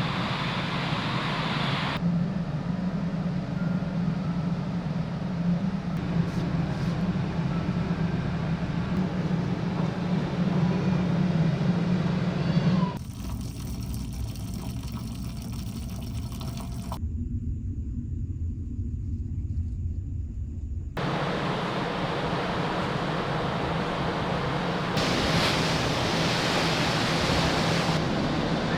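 A large car ferry's steady low engine drone, mixed with wind and sea noise, in several short takes that cut abruptly from one to the next. In one take the drone is heard alone as a quieter low rumble.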